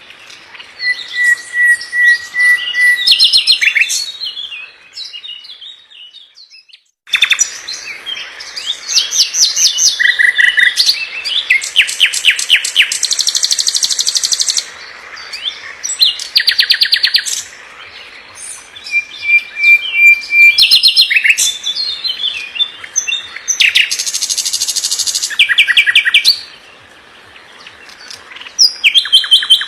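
A songbird singing a fast, varied song: bursts of rapid high trills and chattering phrases, with a held whistled note now and then. There is a brief pause about five seconds in.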